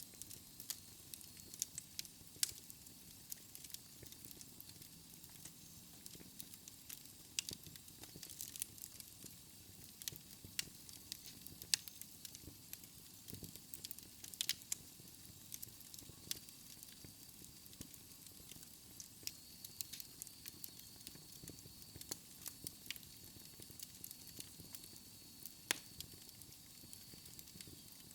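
Wood fire burning in a fireplace, crackling: irregular sharp pops and snaps over a soft hiss, a few of them louder. A faint thin high whistle joins about halfway through.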